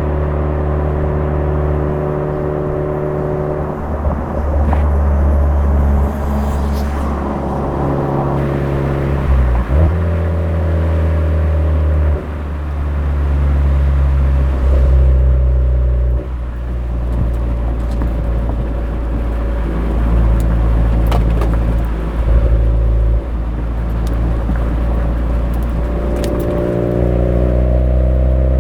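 Suzuki Swift Sport ZC33S's 1.4-litre turbocharged four-cylinder running through a Fujitsubo aftermarket exhaust while driving at road speed, a steady exhaust drone whose pitch changes abruptly several times.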